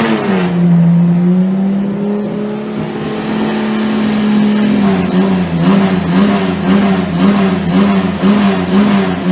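Chevrolet 400's engine held at steady raised revs for about four seconds, then revved up and down evenly, about one and a half times a second.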